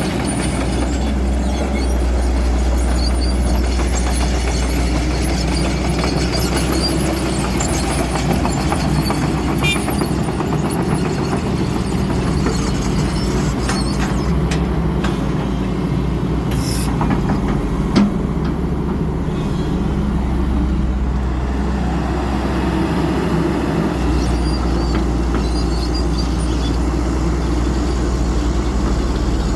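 Diesel engine of an XCMG 140 excavator running steadily, with a deep continuous drone. A single sharp click comes about 18 seconds in.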